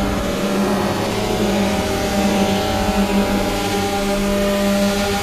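DJI Phantom quadcopter's motors and propellers humming steadily in flight.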